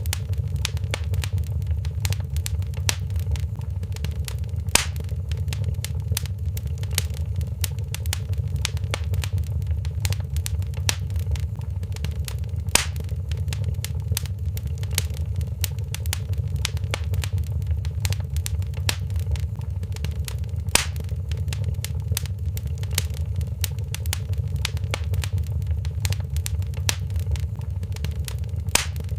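Wood fire crackling in a fireplace: a steady low rumble of the flames under a constant patter of small crackles, with a louder pop about every eight seconds.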